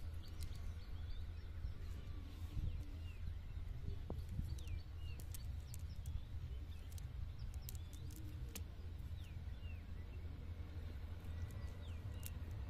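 Outdoor ambience: a steady low rumble with short, sweeping bird chirps now and then, and a few faint clicks.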